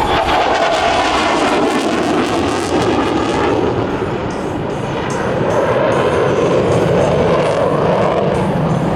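Loud jet roar of an F-35B's turbofan engine as the fighter flies a tight minimum-radius turn. It eases slightly about four seconds in and then builds again.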